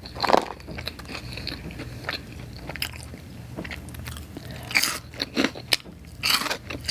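Close-miked chewing of pizza topped with Hot Cheetos: irregular crunching bites and mouth sounds, with louder crunches near the start, about five seconds in and near the end.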